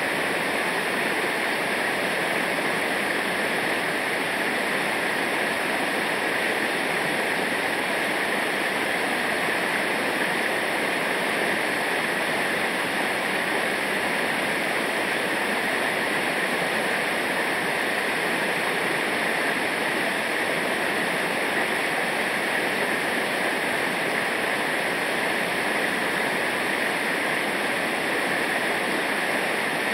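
Fast-flowing river water rushing over rocks, a steady, unbroken roar.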